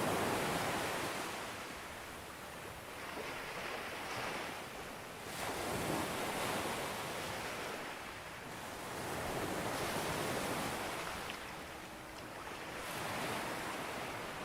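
Sea waves breaking on a beach, the wash swelling and falling back in four slow surges.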